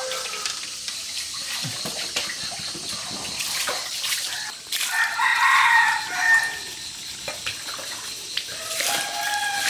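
A rooster crowing once, about halfway through, the call lasting about a second and a half.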